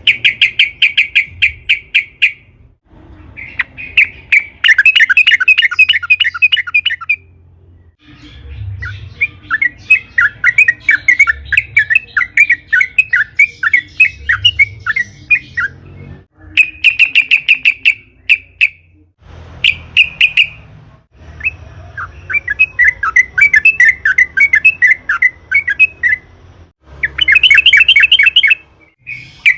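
Yellow-vented bulbul (trucukan) singing: bursts a couple of seconds long of rapid, bubbling chattering notes, broken by short gaps. Some bursts are more varied warbling phrases.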